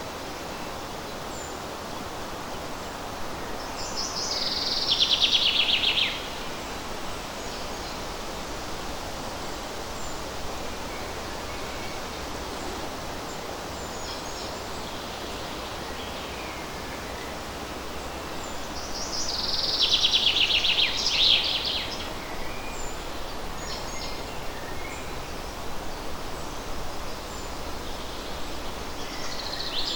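A songbird sings a loud, fast trill that falls in pitch and lasts about two to three seconds. It sings three times: about four seconds in, about nineteen seconds in, and again at the end. Beneath it runs a steady rustle of breeze in the forest leaves, with faint short calls from other birds.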